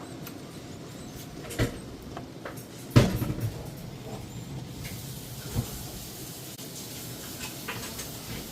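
Kitchen clatter from cookware and utensils being handled: a knock, then a louder clunk about three seconds in followed by a brief rattle, and another knock a few seconds later.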